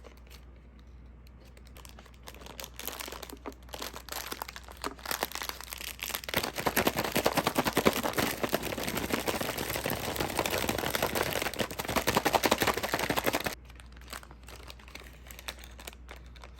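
Crinkling and rustling with many small crackles, growing dense about six seconds in and cutting off suddenly near the end.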